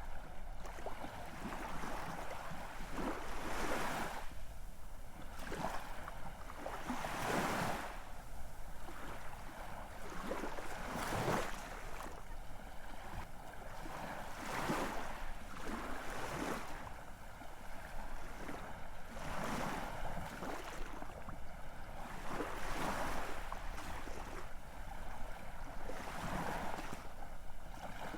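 Ocean waves washing in and out on the shore, a new wash rising and falling about every three to four seconds.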